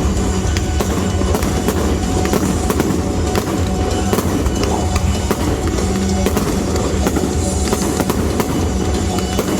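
Fireworks crackling and popping in many quick sharp reports, over loud music with a steady low bass.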